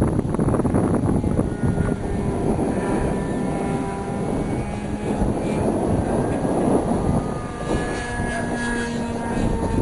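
Radio-controlled PC-9 model airplane's engine running in flight: a thin, steady drone that drifts a little in pitch, over a loud low rumble.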